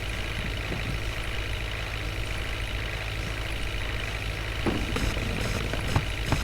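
Water tanker truck's engine idling steadily. About two-thirds of the way in, irregular knocks and clatter start over it.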